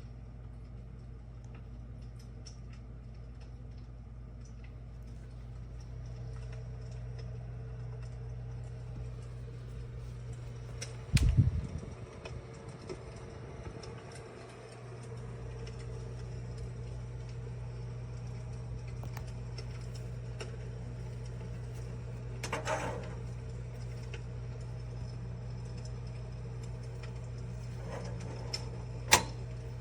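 Electric fireplace insert running: a steady low hum from its heater fan, with sparse faint clicks and crackles from its fire-crackling sound effect. A loud thump comes about a third of the way in, the hum drops out for a few seconds after it and then returns, and there is a short crackle about three quarters of the way in and a sharp click near the end.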